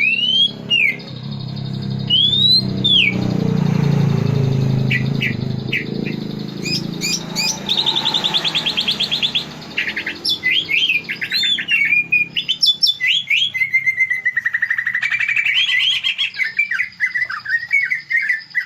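Greater green leafbird (cucak ijo) singing a long, varied song of clear arching whistles, rapid trills and quick mixed phrases, typical of its mimicked 'isian' repertoire. A low rumble runs underneath during the first several seconds.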